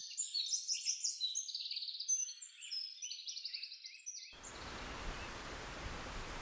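Birds chirping in many quick, high calls, which stop abruptly about four seconds in and give way to a steady hiss.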